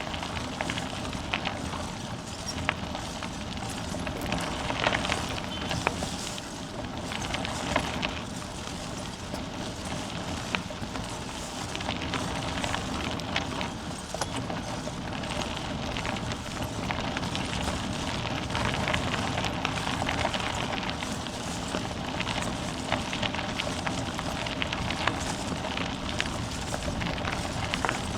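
Bicycle rolling over a rough unpaved path: a steady tyre noise with constant crunching and clicking from the tyres and the bike.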